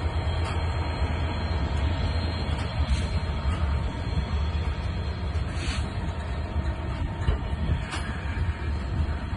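Heavy coal train of Falns hopper wagons rolling past at slow speed: a steady low rumble with a few irregular sharp clicks and knocks of the wheels.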